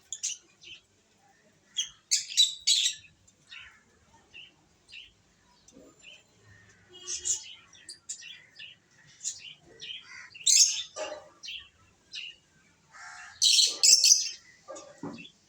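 Pet lovebirds chirping: many short, sharp chirps, irregularly spaced, with louder clusters about two seconds in, in the middle and near the end.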